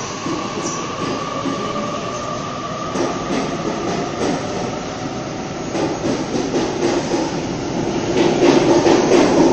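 Sydney Trains double-deck electric train running close past a platform, with a steady high whine over the first few seconds. The wheels clatter over the rail joints and the train grows louder toward the end.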